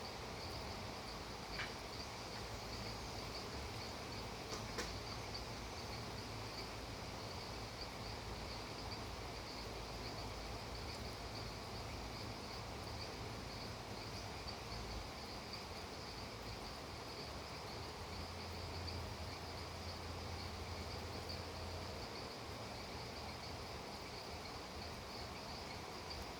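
Steady chorus of insects trilling, a continuous shimmering high buzz, over an even soft hiss.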